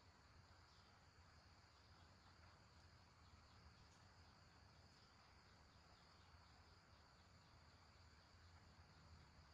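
Faint insect chorus, crickets trilling steadily in a quick, even pulse, over a low hum.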